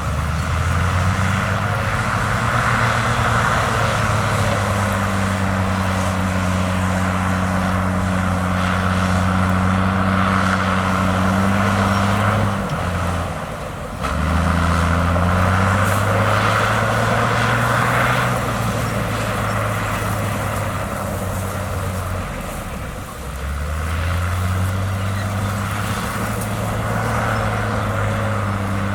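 Heavy diesel engine of earthmoving machinery running steadily under load, its deep drone shifting in pitch as the load changes. It fades briefly about halfway through, comes back suddenly, and dips once more later on.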